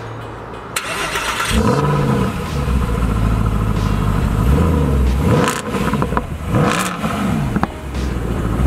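Mercedes-Benz SLS AMG's 6.3-litre V8 started from the push button, catching about one and a half seconds in, then revved several times, the pitch climbing and falling back with each rev.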